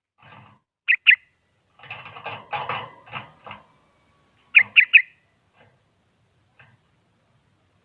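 Sooty-headed bulbul (kutilang) calling: two sharp notes, a harsh chattering run, then three more sharp notes in quick succession.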